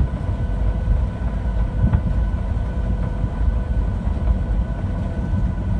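Cabin noise inside a Boeing 737-700 rolling on the ground after landing: a steady low rumble with a faint engine whine, and a light knock about two seconds in.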